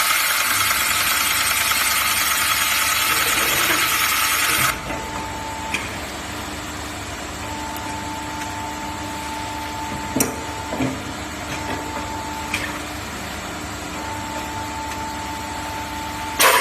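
Automatic steel pipe drilling and milling machine at work. A loud hiss runs for about the first five seconds, then stops. After that a quieter stretch follows, with a steady whine that switches on and off and a few sharp clicks, and the loud hiss comes back at the very end.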